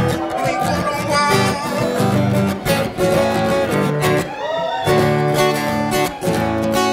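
Acoustic guitar picked and strummed in an instrumental passage of a live song.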